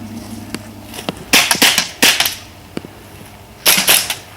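Airsoft guns firing in short rapid bursts of sharp cracks, about a second in, again around two seconds, and near the end.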